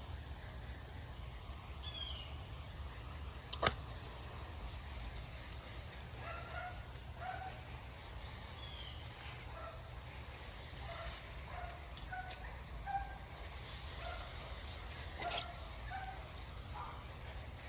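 Scattered short bird calls over a steady low hum, with a sharp click about three and a half seconds in.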